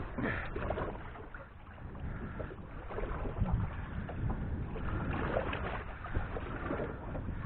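Wind buffeting the microphone over water sounds from a small boat, with a few light knocks and clicks as fishing gear is handled on a bite.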